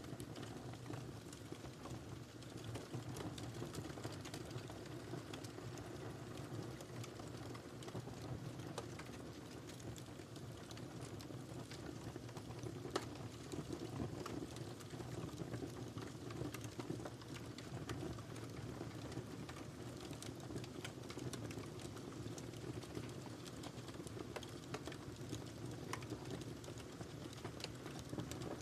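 Wood fire crackling in a fireplace: a steady low rumble of flames under frequent small pops and snaps, with one sharper pop about halfway through.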